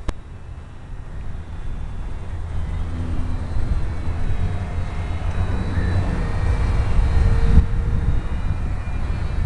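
Wind rumbling on the microphone, growing louder, with the faint, shifting whine of an ultra-micro RC airplane's small electric motor and propeller changing pitch in the gusts. A single sharp click right at the start.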